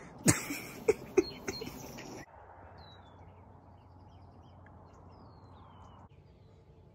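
A few loud, sharp sounds in the first two seconds, then small birds chirping: several short, high, falling calls over a steady outdoor hiss.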